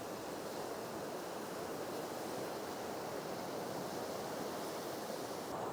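Steady, even wash of sea waves on the shore.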